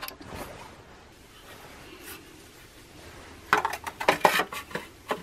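Faint rubbing and scraping, then a quick run of sharp metallic clicks and clatter from about three and a half seconds in, like metal tools or parts being handled.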